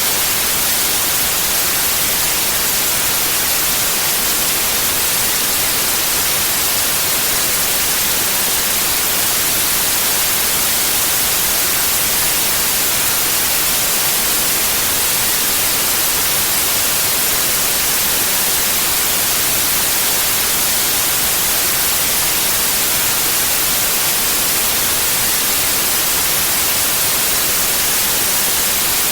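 Steady synthetic white noise: an even, unchanging hiss, bright and strongest in the high frequencies.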